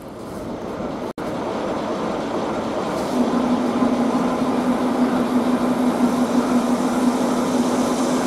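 Passenger train departing behind a ChS4 electric locomotive: a steady rolling rumble of the train that grows louder, with a steady low hum joining about three seconds in. The sound drops out for a split second about a second in.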